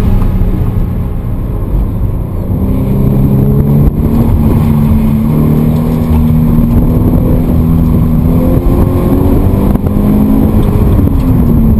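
A 2013 Scion FR-S's flat-four boxer engine, fitted with a Perrin cat-back exhaust, pulling hard through an autocross run, heard from inside the cabin. The engine note holds fairly steady with small rises and falls, then drops in pitch near the end.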